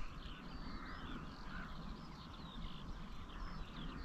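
Birds chirping and calling, faint, many short rising and falling notes overlapping throughout, over a low rumble.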